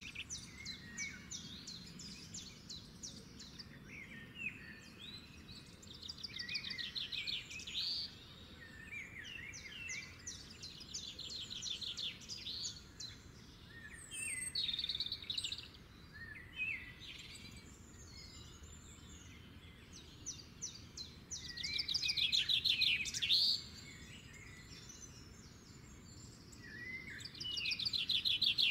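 Songbirds singing: fast, repeated trills and short chirps, with louder trilled phrases every few seconds.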